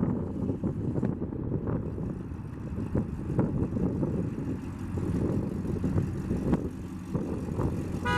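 Rebuilt 350 cid V8 in a custom 1931 Ford Model A pickup running steadily, a low rumble with some wind noise. Near the end come a few quick horn toots.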